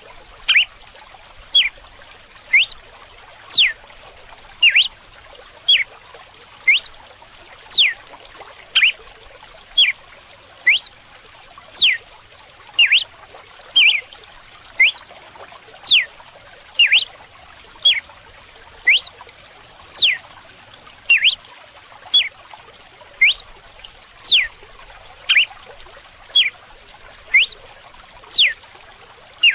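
Red-cowled cardinal (galo-de-campina) singing its whip-like 'açoite' song: sharp, loud notes about once a second, many of them steep downward whistles, over a steady trickle of running water.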